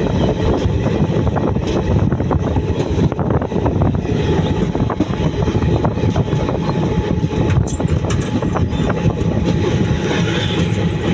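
Passenger train running on the track: a steady loud rumble with scattered clicks of the wheels over the rails, and a few brief high squeals in the second half.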